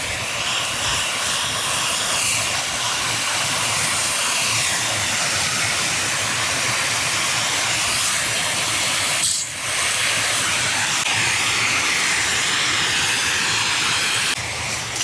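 Garden hose spray nozzle spraying water in a steady hiss, with a brief break about nine seconds in.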